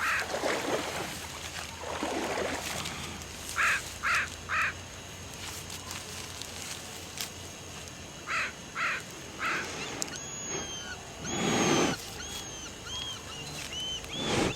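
Birds calling outdoors. Short calls come in two sets of three, about a third of a second apart: one set about 3.5 seconds in and another about 8.5 seconds in. Thin high chirps follow near the end, over background noise that swells now and then.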